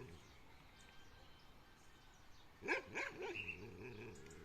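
A dog barking: a few quick barks in a row, starting a little over halfway through, after a quiet stretch.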